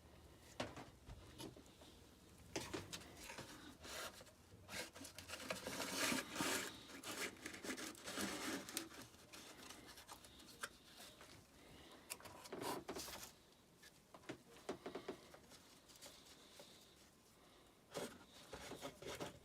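Handling noise: irregular light clicks, scrapes and rubs, with no machine running.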